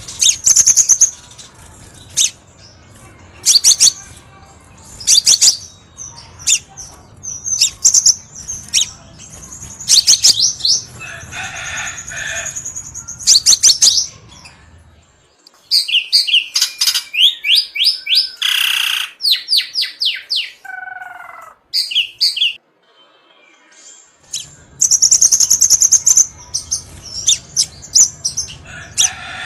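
Crimson sunbird (kolibri sepah raja) song: rapid high-pitched chirps and twittering trills in quick bursts, with a short lull of sparser, different calls about halfway through.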